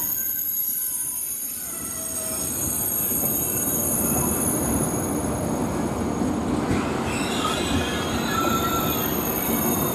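TGV high-speed train rolling slowly past along the platform, its cars rumbling over the rails. Several high-pitched wheel squeals ring over the rumble in the first half and die away about halfway through, with fainter, lower squeals later on.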